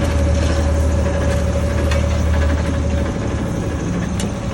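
Truck-mounted pothole repair machine's engine running steadily, a low drone with a steady whine over it; the drone drops off about three seconds in.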